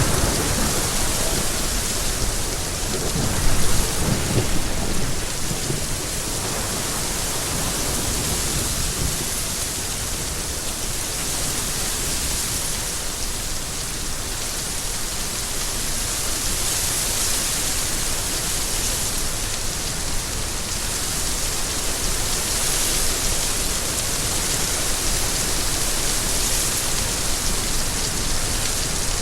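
Steady, dense rainfall hissing, with a low rumble of thunder over the first few seconds, loudest about three and a half seconds in.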